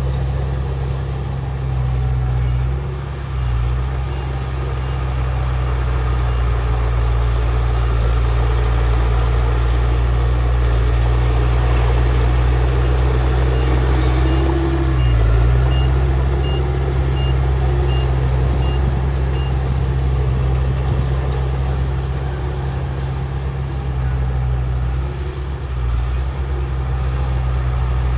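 Heavy diesel earthmoving machinery running steadily, its engine note dipping briefly a few times as the load changes. Midway a reversing alarm beeps about twice a second for several seconds, and fainter beeps of the same kind come early on.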